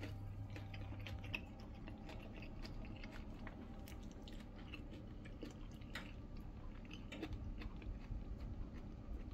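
A person chewing a mouthful of crispy-skinned roast chicken, with faint crunches and small mouth clicks scattered throughout.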